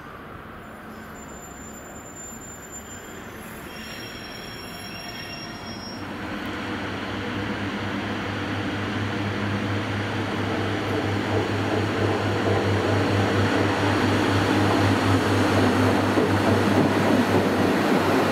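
A train approaching, growing steadily louder, with a steady low hum under the rising rumble of its running.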